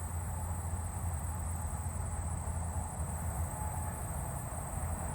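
Steady high-pitched insect chorus, with a low steady rumble underneath.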